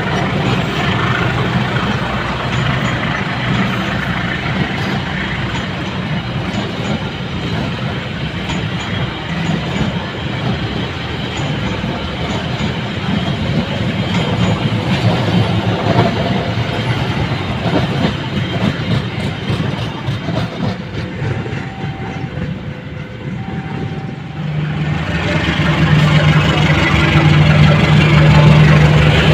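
A train running on the rails with a steady rumble and clatter. About 25 seconds in, a louder, steady low engine drone comes in, like a locomotive's diesel engine close by.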